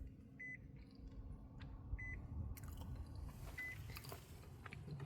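Car's electronic warning chime beeping three times, short high beeps evenly spaced about a second and a half apart, while the car fails to start.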